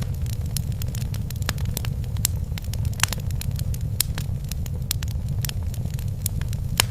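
Fireplace fire crackling: frequent sharp pops and snaps, a few louder ones, over a steady low rumble of the flames.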